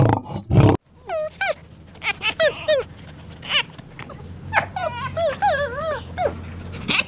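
A loud, deep roar cuts off abruptly under a second in. Then a dog whimpers in a string of short, high whining cries that bend up and down in pitch, over a low steady hum.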